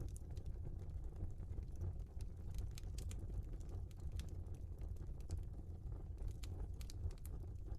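Log fire crackling in a fireplace: irregular sharp pops and snaps from the burning logs over a low steady rumble.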